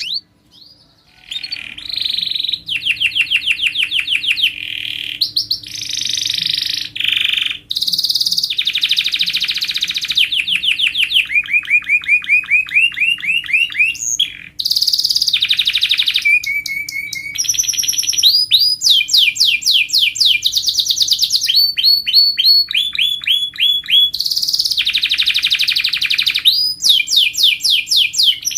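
Domestic canary singing hard: a continuous song of fast trills and rolls, each repeated note pattern switching to a new one every second or two. It starts about a second in after a brief pause.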